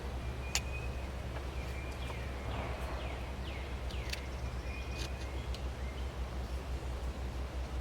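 Birds calling: a run of quick falling chirps in the middle, and a few short sharp call notes, over a steady low hum.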